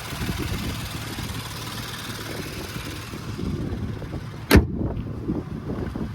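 2018 Porsche Panamera 4S's 2.9-litre twin-turbo V6 idling steadily after a cold start. About four and a half seconds in comes a single loud bang, after which the high hiss is gone.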